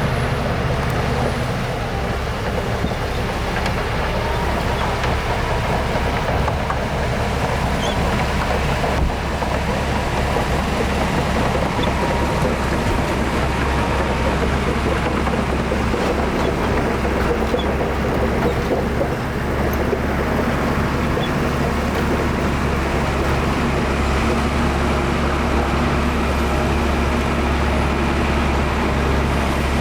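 Heavy diesel engine of earthmoving machinery running steadily, a deep, even low hum that holds at one pitch without revving.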